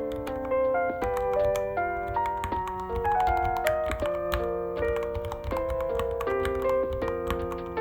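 Typing on a Ducky One 3 mechanical keyboard: a fast, irregular stream of key clicks, heard under background music with a melody stepping from note to note.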